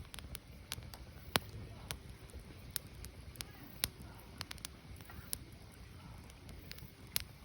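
Wood fire burning: irregular sharp crackles and pops from the burning logs, one or two a second, over the low, steady sound of the flames.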